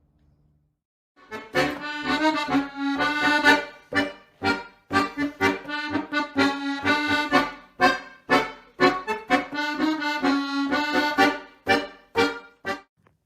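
Accordion music: a lively tune of short chords and held notes, starting about a second in and stopping just before the end.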